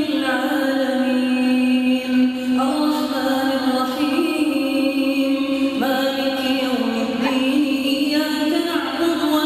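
A single voice chanting Qur'an recitation in the melodic tajwid style, holding long drawn-out notes that step from one pitch to the next every second or two.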